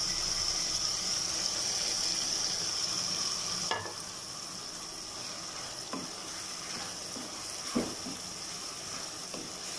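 Onion-tomato masala sizzling in hot oil in a kadai, stirred with a plastic spatula. The sizzle drops a little about four seconds in, as the mashed roasted brinjal goes in, and a few spatula knocks sound against the pan.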